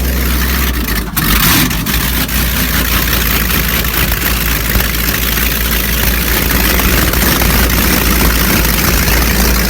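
Rebuilt MerCruiser marine engine running steadily at idle on its first run after the rebuild. It changes briefly about a second in.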